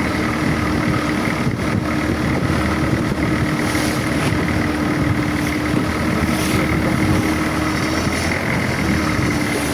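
Boat engine running steadily, a loud, even drone with a constant hum.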